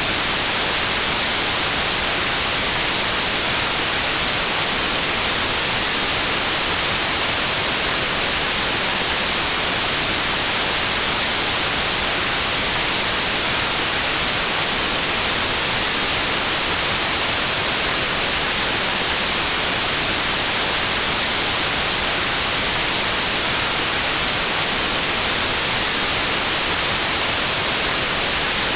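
Steady white noise: an even, unbroken hiss, strongest in the high frequencies, with no changes.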